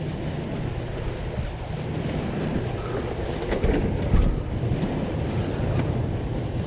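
Wind buffeting the microphone and water rushing past the hull of a sailboat under way, with a few faint knocks about halfway through.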